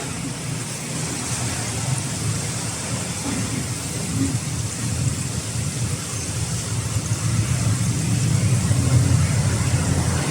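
Steady low rumble of road traffic with an even hiss over it, growing a little louder in the last few seconds.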